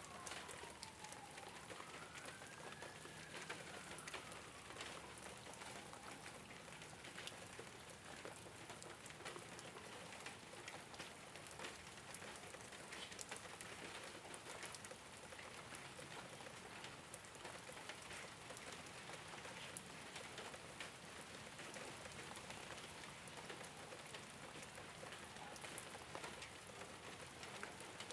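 Steady rain falling on a rooftop: an even hiss dotted with many small drop ticks. A faint tone slides down and back up in pitch during the first few seconds.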